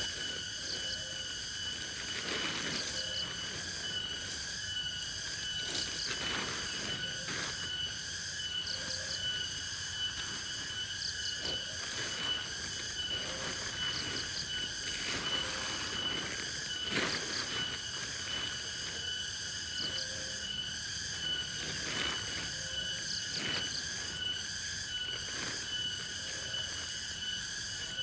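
Forest insect chorus: a steady, shrill, unbroken trilling, with a short low call every second or two, typical of frogs, and scattered faint clicks.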